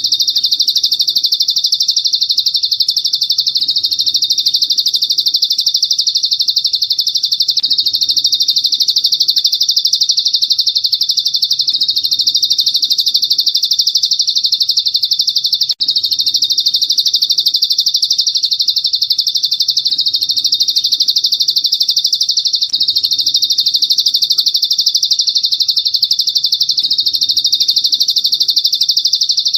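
A bird-song training (masteran) recording: a continuous, high, very rapid trill that runs on without a break, with one brief dropout about 16 seconds in.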